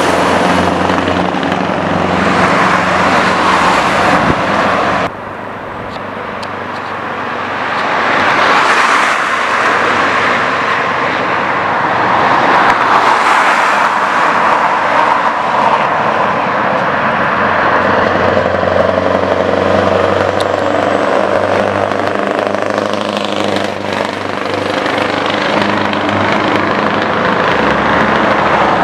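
Scania R620's straight-piped V8 engine running loud with its exhaust open. It cuts off abruptly about five seconds in to a quieter stretch that builds up again, the engine note shifting in pitch as the truck drives.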